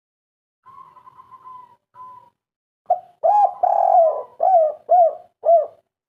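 Spotted dove (derkuku, local 'kuk 3' type) cooing: a run of about six short, arched coo notes in quick succession in the second half, one of them drawn out, after a fainter steady note near the start.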